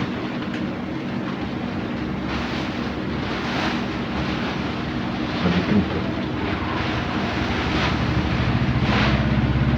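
Traffic noise: an engine running steadily, with several brief whooshes, getting a little louder near the end.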